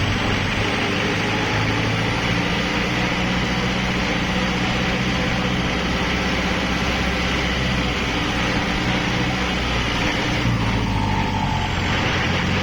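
Kubota tractor's diesel engine running steadily under load, with the hum of the rotary tiller it drives.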